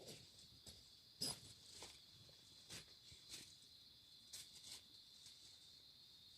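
Faint, steady high chirring of forest insects such as crickets, with a handful of light ticks and taps scattered through it; the loudest tap comes about a second in.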